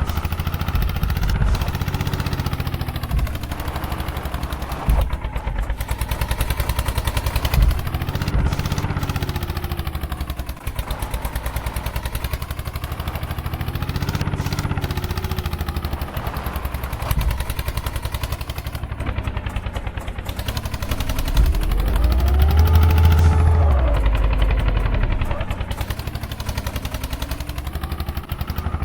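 Eicher 241 tractor's single-cylinder diesel engine running with a rapid knock, its revs rising and falling several times, with the longest and loudest rev-up about three-quarters of the way through.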